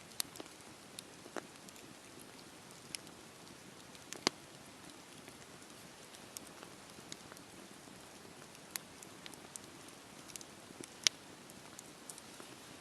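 Wood campfire crackling: a low steady hiss of burning with sharp pops at irregular intervals, a strong one about four seconds in and the loudest late on.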